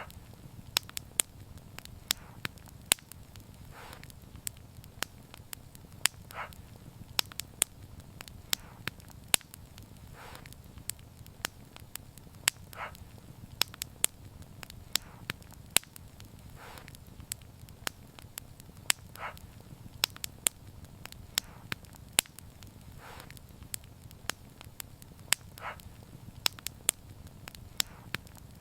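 Wood fire crackling: sharp, irregular pops and snaps over a low, steady rumble, with a softer, duller sound recurring about every two seconds.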